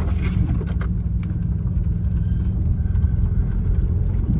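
Volkswagen Vanagon driving, heard from inside the cabin: a steady low engine and road rumble, with a few light clicks about a second in.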